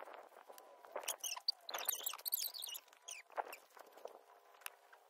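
Small birds chirping faintly in quick, squeaky bursts, busiest about halfway through, with scattered light clicks and rustling.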